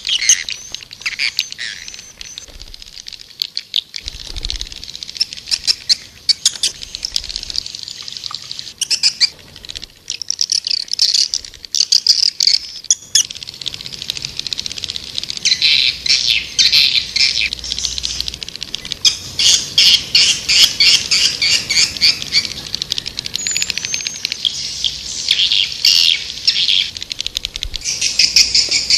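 Swiftlets twittering: rapid trains of short, high chirps and trills, thinner in the first few seconds and denser and more regular in the second half. It is a swiftlet lure call of the kind played to draw the birds into a nesting house.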